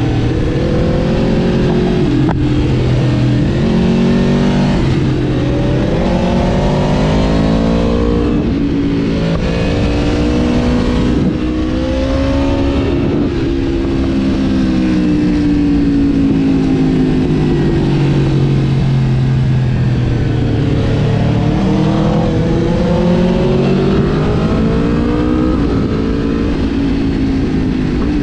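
Aprilia RSV4 Factory's V4 engine pulling hard from the rider's seat, its revs climbing and dropping sharply at each gear change several times in the first half, then easing down and picking up again. Wind rush runs under it.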